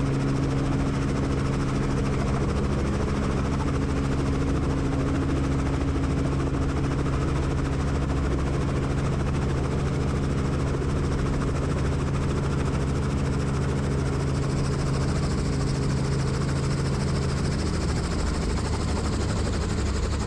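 Helicopter turbine and rotors running, a steady drone with low humming tones. The tones shift lower about three-quarters of the way through.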